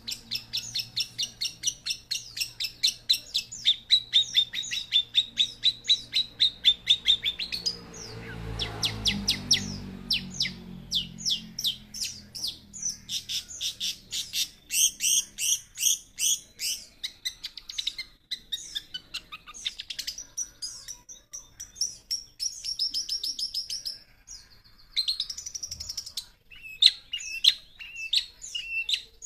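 Young long-tailed shrike (cendet) singing: fast trains of short, high repeated notes that switch to a new phrase every few seconds. There is a brief low rumble about eight seconds in.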